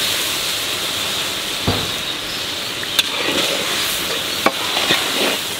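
Tomato puree sizzling in hot oil in a metal kadai of spiced chicken, stirred in with a spatula, with a few sharp knocks of the spatula against the pan. The chicken has been browned until the oil separates, and the tomato is now being fried into the masala.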